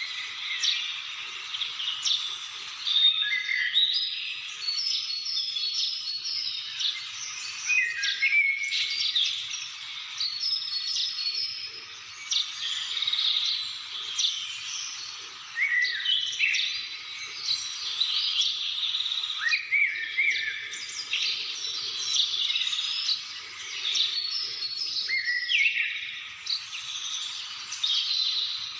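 Many birds singing and calling at once: a dense chorus of overlapping chirps and short whistled phrases.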